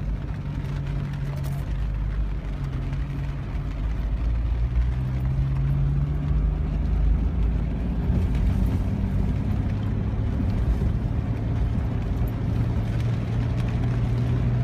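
Car driving slowly, a steady low engine hum with road noise; the engine note rises a little around five seconds in and drops after about eight seconds.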